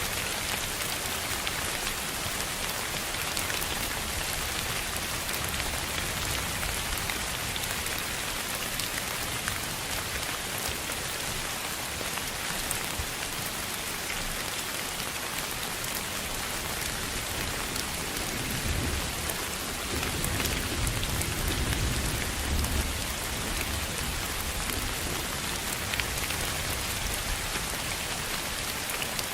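Steady rain pattering, with fine drop ticks over an even hiss. A low rumble like distant thunder swells about two-thirds of the way through and fades a few seconds later.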